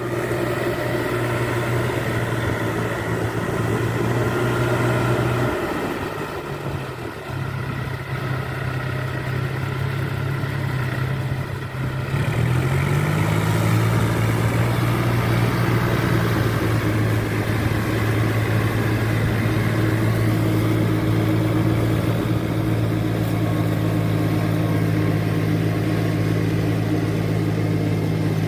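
Four-wheel paddy-field tractor's engine running steadily. Its note drops briefly about six seconds in, picks up again around twelve seconds, and then holds steady.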